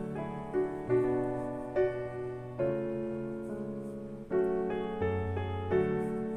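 Background piano music: soft, slow chords and melody notes struck about once a second, each fading before the next.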